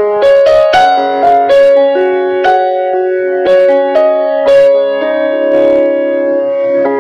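Background piano music: a simple melody of held notes, each struck note changing to the next about once a second.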